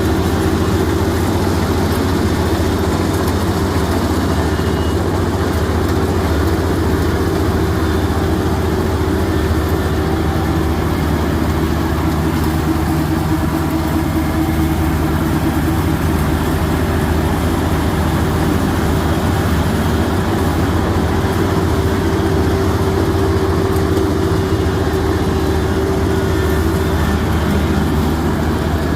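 Combine harvester's engine and machinery running steadily with an even, low hum.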